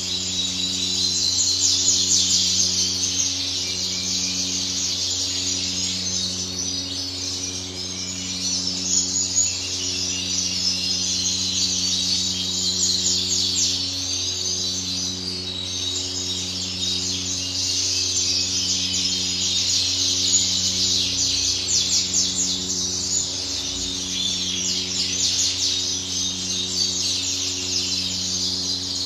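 Many caged canaries chirping and singing at once, a continuous dense twittering. Under it runs a low steady hum that pulses about once a second.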